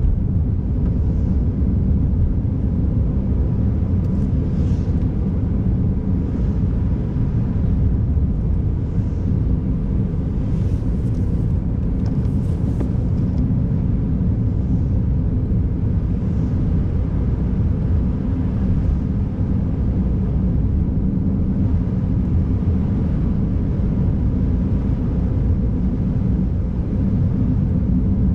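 Steady low rumble of a car driving on a snowy road, engine and tyre noise together, with faint brief hissing a few times.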